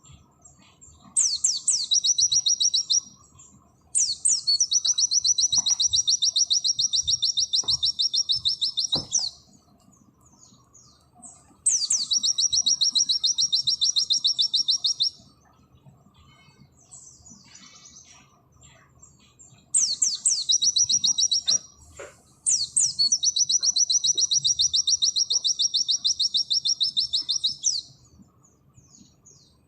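White-eye (pleci) singing in the fast 'nembak' style: long, rapid rattling trills, five bursts of about two to five seconds each, with soft chirps between.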